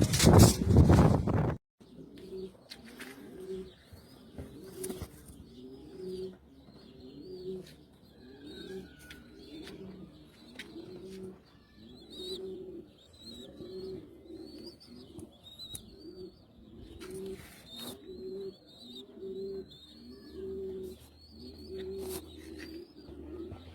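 Domestic pigeons cooing over and over, a low coo about once a second, with high chirping over it. A loud burst of noise fills the first second and a half and stops suddenly.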